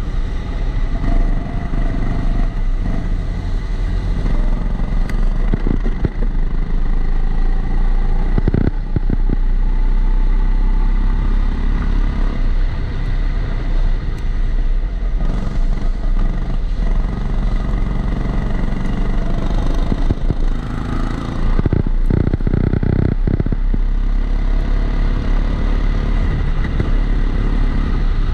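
Rental go-kart engine heard onboard, revving up and dropping back through the laps, with a steady high tone running underneath. Knocks and rattles come through about a third of the way in and again past two-thirds.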